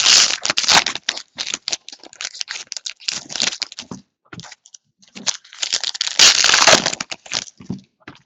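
Crinkly plastic wrapping on trading-card packs being crumpled and torn open, with quick sharp crackles. There are two dense spells, near the start and again about six seconds in, with a short lull between them.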